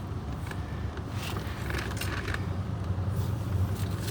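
Scattered clinks and short scrapes of metal tools against the car's rear brake caliper and bracket, over a steady low hum.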